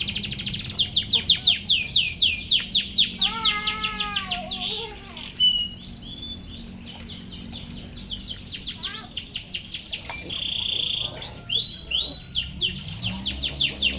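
Domestic canary singing: fast trills of rapidly repeated sweeping notes, easing off around the middle and starting up again near the end.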